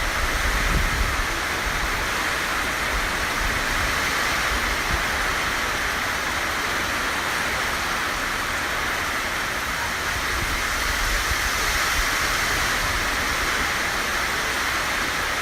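Heavy tropical-storm rain pouring down steadily, with wind buffeting the microphone in low rumbling gusts that are strongest in the first second or so.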